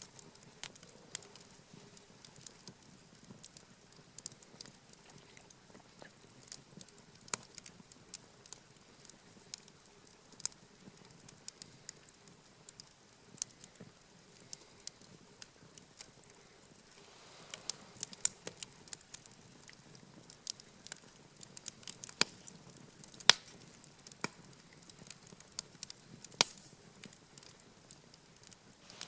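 Wood campfire crackling, with sharp irregular pops scattered throughout and a few louder ones in the second half.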